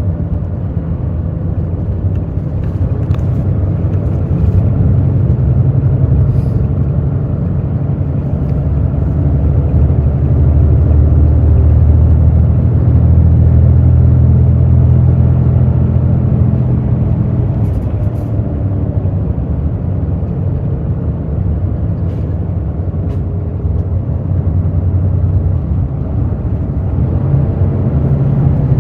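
Hino J08E-VD inline-six diesel of an intercity bus running under way, heard from inside the cabin. The engine note swells about ten seconds in, drops back after about seventeen seconds, and builds again near the end.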